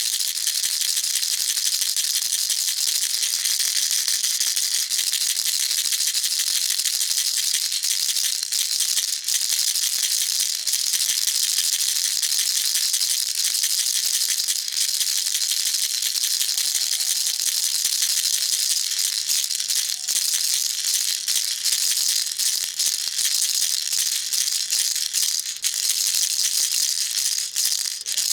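Baby rattle shaken continuously: a steady, fast, bright rattling of small beads inside the toy.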